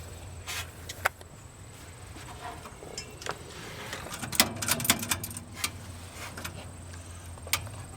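Scattered sharp clicks and knocks, bunched together about four to five seconds in, over a low steady hum.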